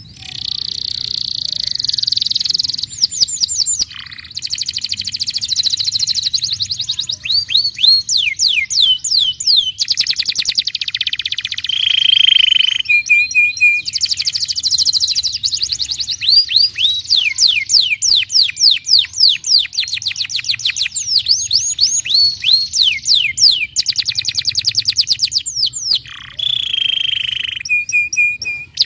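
Domestic canary singing a long, loud song made of runs of fast repeated notes: quick falling whistles and rapid trills, with only brief breaks.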